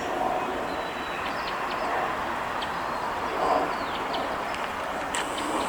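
Steady rushing outdoor background noise, with faint short bird chirps scattered through it.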